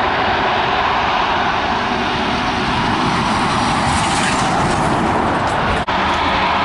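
Twin jet engines of an Airbus A330-300 at takeoff power, a steady loud rushing noise with a momentary dropout near the end.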